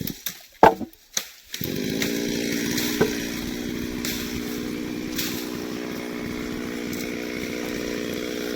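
A few sharp knocks, then about a second and a half in a chainsaw engine starts up and runs at a steady speed.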